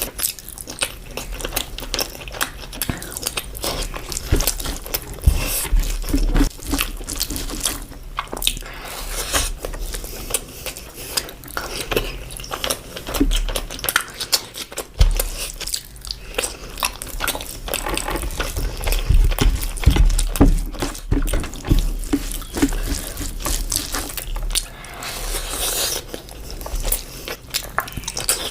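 A person chewing and biting food, with wet mouth sounds, irregular smacks and crunches.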